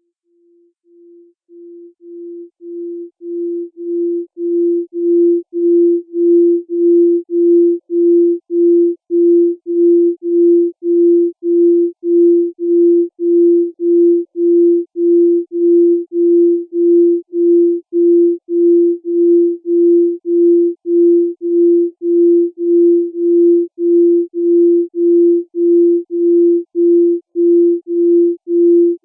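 Electronic beeping: a single pure, mid-low tone repeating a little under twice a second, fading in from silence over the first few seconds and then holding a steady level.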